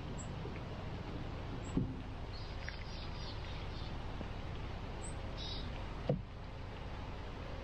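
Steady outdoor background noise with faint bird chirps, a short run of them a couple of seconds in and another about five and a half seconds in, and two brief low sounds, one near the second mark and one about six seconds in.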